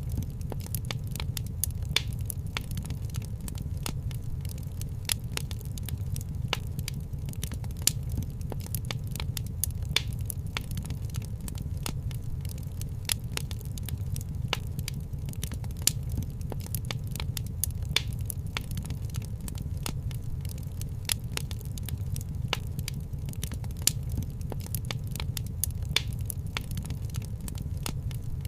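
Wood fire crackling in a fireplace: dense small crackles and sharper pops every few seconds over a steady low rumble.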